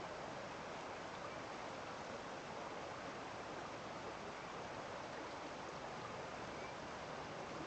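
Steady rushing of a flowing stream, an even unbroken wash of water noise.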